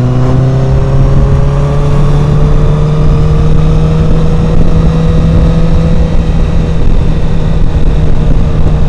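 Motorcycle with a Yoshimura R77 exhaust, heard through a microphone inside the rider's helmet: the engine note rises over the first couple of seconds as it gathers speed, then holds steady at cruising speed. A heavy low wind rumble buffets the microphone throughout.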